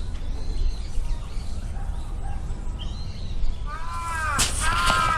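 Birds calling: faint thin chirps, then from about four seconds in a louder bird's repeated arching calls. A steady low rumble runs underneath.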